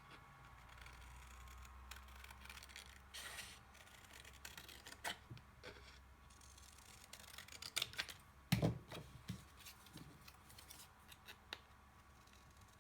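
Scissors cutting a shape out of card or paper: scattered snips with rustling of the sheet, the loudest cuts about eight to nine seconds in.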